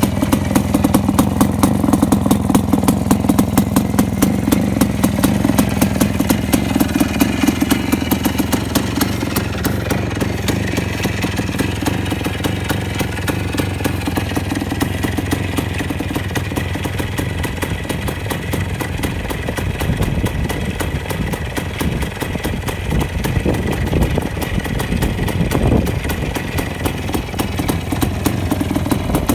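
Voskhod 3M-01 motorcycle's single-cylinder two-stroke engine running steadily, a rapid even beat of firing pulses.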